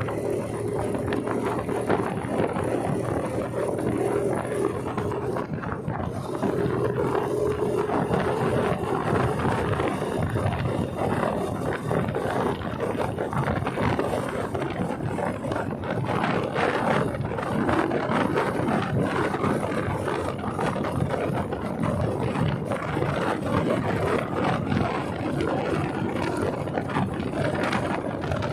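Motorcycle running along the road, its engine note under a steady rush of wind and road noise.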